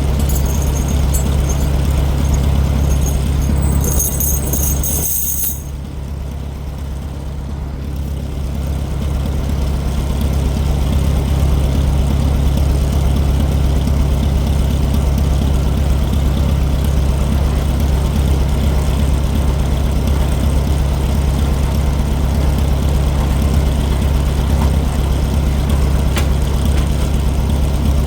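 Farmall 400 tractor's four-cylinder gasoline engine idling steadily, with a high chattering over the first five seconds. About five seconds in the engine sound drops for a few seconds, then comes back up to the same steady idle.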